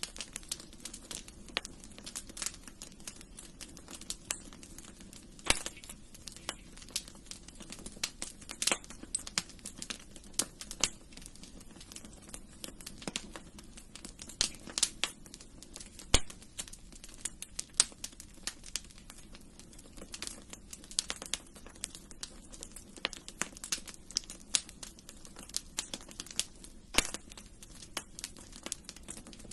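Wood fire burning in a fireplace: a steady low rush with irregular crackles and sharp pops, several a second, a few louder snaps standing out.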